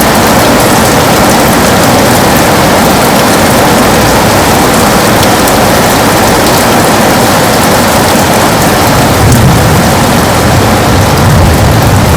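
Heavy rain beating steadily on a window, a dense hiss with fine drop ticks; a low rumble swells in near the end.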